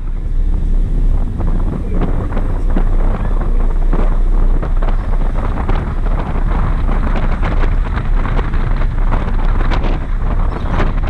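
Loud wind buffeting the microphone of a GoPro riding on the roof of a moving car, a steady rush with constant crackling.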